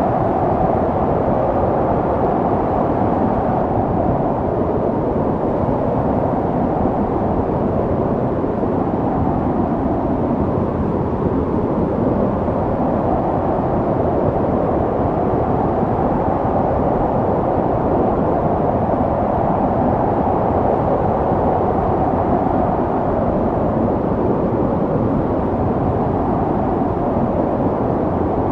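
Snowstorm wind blowing steadily, a deep rushing that swells and eases slowly, with no gusts or breaks.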